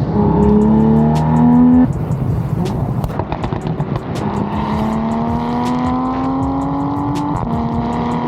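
Car engine and exhaust pulling hard through the gears: the pitch rises for about two seconds, drops suddenly at a shift or lift with a scatter of crackles, then climbs again in a longer pull before dropping at another shift near the end.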